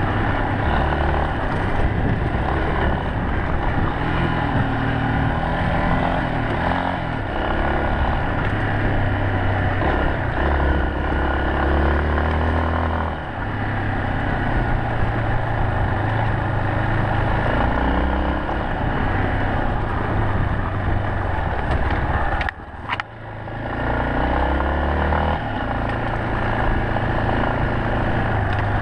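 Yamaha Serow 250's air-cooled single-cylinder four-stroke engine running under way, its pitch rising and falling again and again with throttle and gear changes, over a steady rushing noise. The sound drops away briefly for about half a second about three-quarters of the way through.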